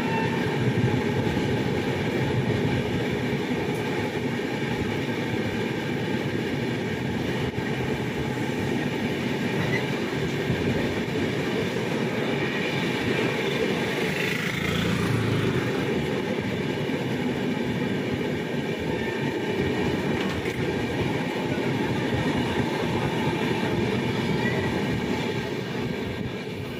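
Passenger train running at speed, heard from aboard: a steady running noise of wheels on the rails, briefly louder about halfway through.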